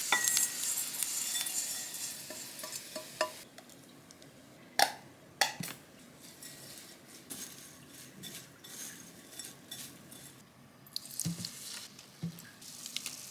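Food sizzling in a frying pan, dying away over the first few seconds, then scattered clinks and knocks of utensils against pans and dishes, with two sharp clinks about five seconds in.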